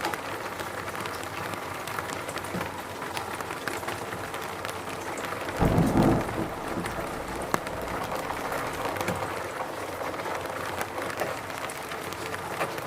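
Steady rain falling in a forest, a dense hiss with many scattered drop ticks. About six seconds in, a brief low rumble rises above it and dies away within a second.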